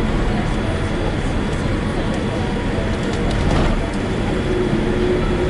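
Boeing 787-8 Dreamliner cabin noise during the landing, a steady loud rumble.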